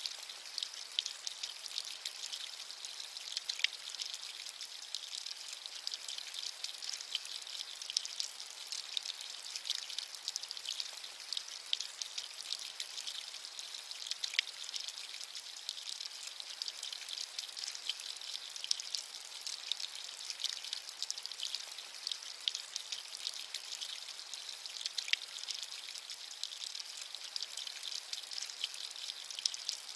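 Steady rain: a dense, even patter of small drops over a high hiss, with no thunder and almost no low end.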